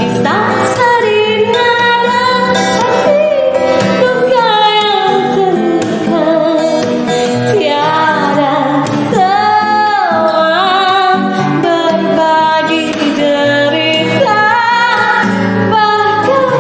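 A woman singing an Indonesian pop song over music accompaniment, holding notes with a wavering vibrato.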